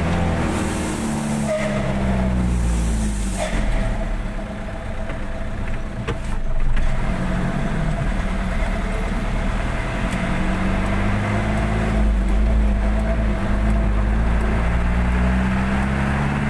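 Truck engine running under way, its pitch rising and falling as it is driven and revved. Two short hisses come within the first few seconds.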